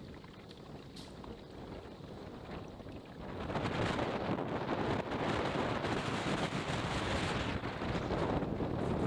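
Strong wind buffeting the microphone over choppy water, a steady rushing noise that gets louder a little over three seconds in.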